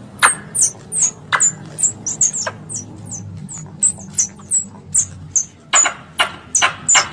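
Squirrel calling as a lure: a fast, steady series of short, high-pitched chirps, each dropping in pitch, about three a second. A few sharper, louder chips come in near the end.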